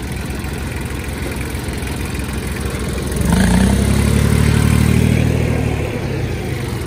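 Tractor engine running, revved up about three seconds in for a couple of seconds with a deeper, louder rumble, then dropping back to a steady run.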